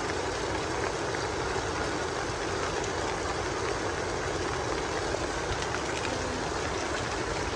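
Steady rain falling, an even rushing hiss that holds at one level throughout.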